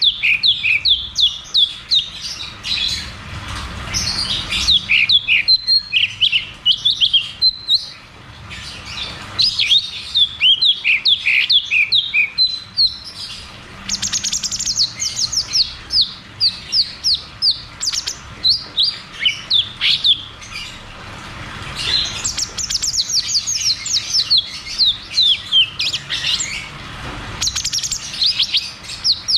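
Cucak cungkok songbird singing in long, fast rolling runs of sharp, falling whistled notes, broken by a few brief pauses.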